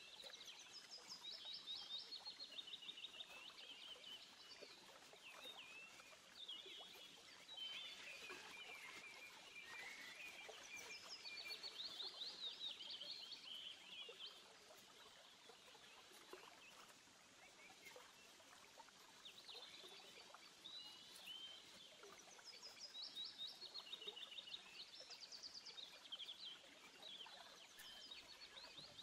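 Faint birdsong: high chirps and quick trills that come in waves, with a lull around the middle.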